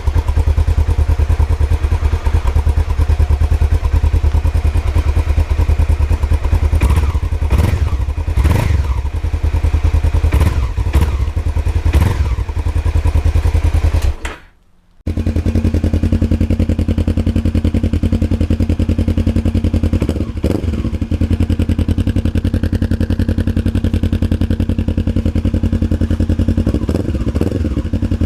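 Honda CBF500 parallel-twin motorcycle engine breathing through an IXIL shorty aftermarket exhaust, idling with several quick throttle blips in the first half. It cuts out briefly about halfway, then idles steadily again with one short blip.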